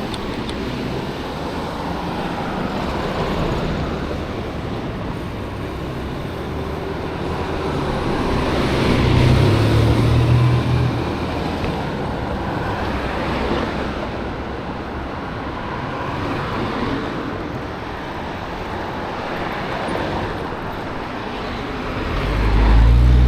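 Road traffic passing a busy intersection: a steady hiss of cars driving by, swelling as single vehicles pass. The loudest passes come about nine seconds in and again near the end, each with a low engine note.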